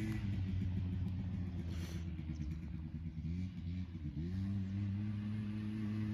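The 95.6cc two-stroke engine of a Quadzilla Stinger 100 quad bike running, its pitch wavering with the throttle. It dips briefly about four seconds in, then climbs back and holds steady.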